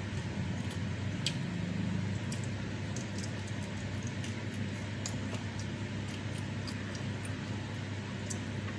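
Close-miked chewing of a handful of rice, salted fish and raw young jengkol: scattered wet mouth clicks and smacks, over a steady low hum.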